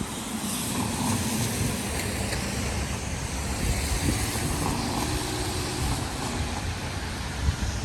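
Steady outdoor traffic noise with rain: a continuous low rumble and hiss.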